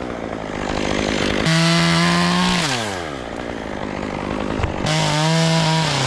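Two-stroke chainsaw revved to full throttle twice. Each time the engine holds a high, steady pitch for about a second, and between the two bursts it drops back toward idle.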